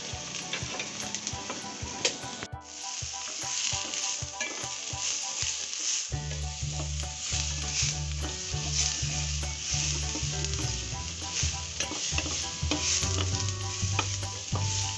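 Onion, garlic, curry leaves, red chili and white mustard seeds sizzling in hot oil in a stainless-steel pot, stirred with a wooden spatula.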